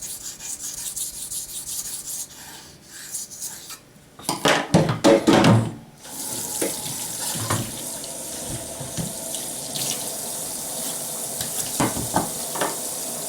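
Steel knife blade scraping in strokes across a wet waterstone. About four seconds in comes a loud clatter and splash. From about six seconds on, water runs steadily from a tap, with a few knocks.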